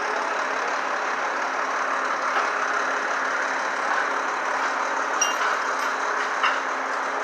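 Heavy diesel trucks idling steadily, a constant engine rumble, with a couple of faint ticks about five and six and a half seconds in.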